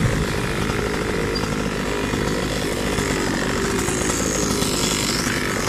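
Small two-stroke pocket-bike engine running at low revs, a steady fast buzzing putter.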